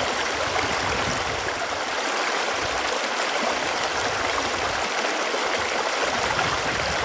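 Running water flowing steadily: an even, unbroken rush.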